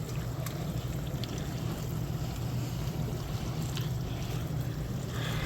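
A steady low hum with an even rushing noise over it, and a few faint clicks.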